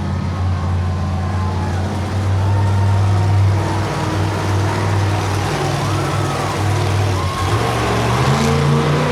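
Monster truck engine running loud and steady, its pitch stepping up over the last second and a half.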